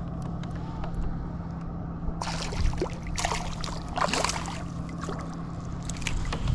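Water splashing and sloshing beside a kayak in irregular bursts from about two seconds in, as a small smallmouth bass is brought to the boat and landed.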